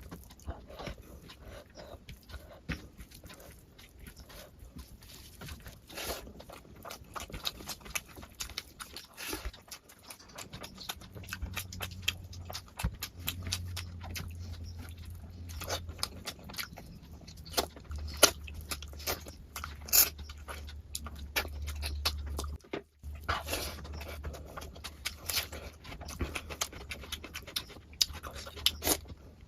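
Close-miked eating sounds: wet chewing and lip smacks, with many short clicks. A low hum joins in about a third of the way through.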